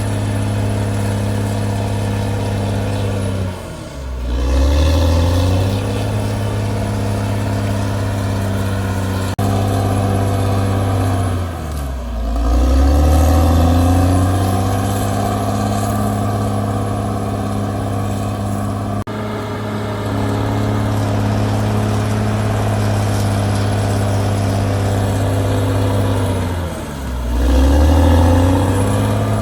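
Caterpillar D6R bulldozer's diesel engine running steadily. Three times its pitch drops sharply and then climbs back up, briefly louder as it recovers: about four seconds in, about twelve seconds in, and near the end.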